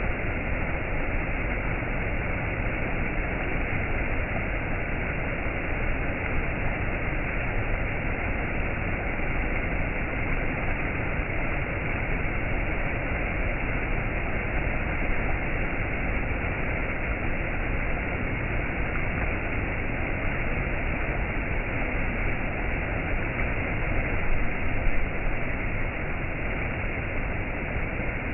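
Waterfall rushing steadily, an even wash of falling water with a slight swell near the end.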